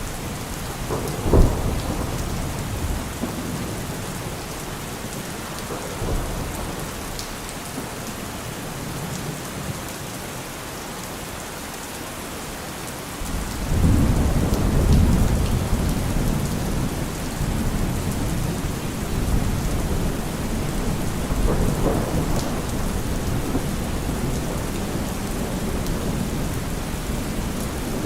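Steady rain falling, with thunder: a sharp crack a little over a second in, then a long low rumble of thunder that swells in about halfway and keeps rolling.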